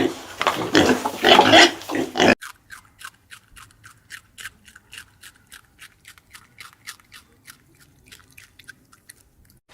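Pig grunting and squealing loudly for about two seconds, cut off abruptly; then faint, quick clicking or crunching, about four to five ticks a second, like an animal chewing.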